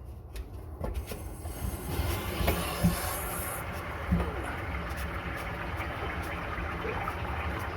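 Cold water supply opened on a drained gas water heater: water rushes into the tank with a steady hiss that builds over the first few seconds, with a couple of faint knocks.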